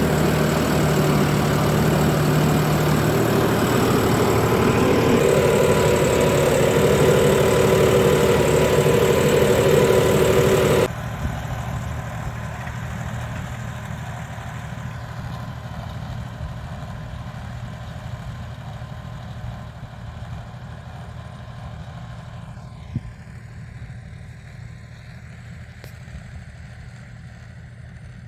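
John Deere 5405 tractor's diesel engine running steadily, then suddenly quieter and duller about eleven seconds in, and fading slowly after that. A single sharp click sounds near the end.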